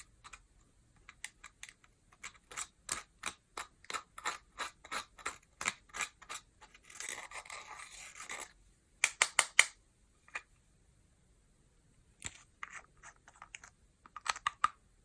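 Sharp small clicks and taps on hard plastic and makeup, about two a second, then a scraping stretch about halfway and a few louder clicks, with a sparser run of clicks near the end.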